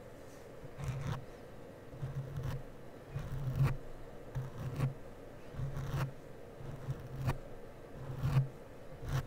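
Close-up scratchy rubbing strokes on the microphone, about one a second, each with a low buzzy rumble, as of a cosmetic brush or applicator worked over it in mimed make-up application.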